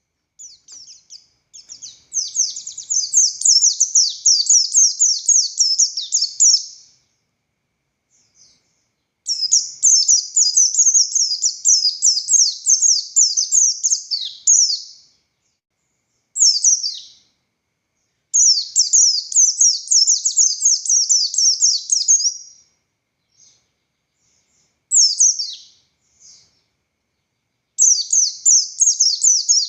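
Pleci buxtoni (a white-eye) singing in loud, fast, high-pitched twittering phrases of rapid notes, several seconds long, separated by short pauses and a few brief single calls.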